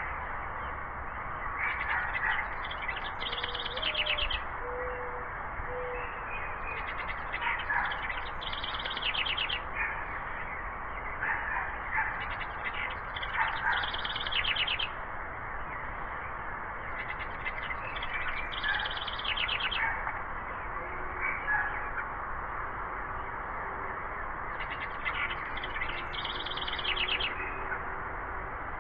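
A songbird singing the same short phrase five times, roughly every five seconds, each phrase ending in a fast trill. A steady background hiss runs underneath.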